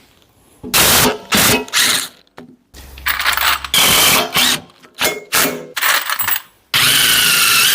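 Metal clanking and scraping as a heavy steel hydraulic lever valve block is handled and set in place on the log splitter frame, a series of sudden loud clatters, with a brief falling whine near the end.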